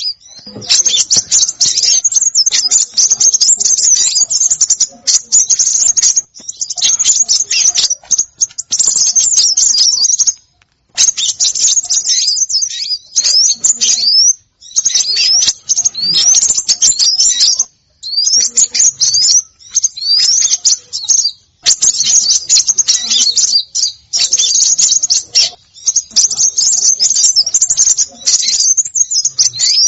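Recorded lure calls of small songbirds: dense, rapid, high-pitched chirping and twittering with quick rising notes, in bursts of one to a few seconds broken by brief gaps.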